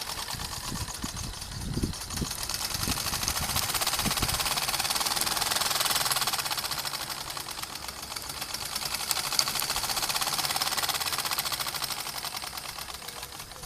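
Gas-fired model steam traction engine running fast, with rapid even exhaust beats over a steam hiss. It grows louder, eases off, picks up again, then dies down near the end.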